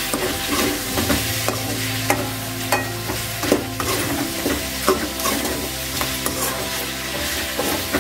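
Chicken pieces with shallots and dried red chillies sizzling in oil in a metal kadai as they are stirred briskly with a metal spoon, the spoon clicking and scraping against the pan again and again.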